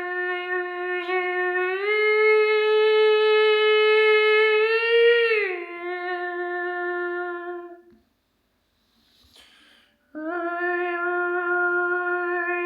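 A voice humming or toning one long held note. It steps up in pitch about two seconds in, slides back down a few seconds later and fades out. After a short pause with a faint breath, the note starts again at the lower pitch.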